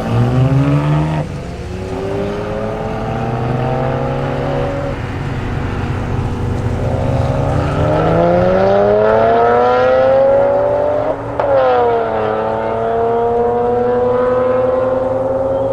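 BMW performance car engine accelerating hard, its pitch climbing through the revs. It drops sharply at gear changes about a second in and again around eleven seconds, then climbs again each time.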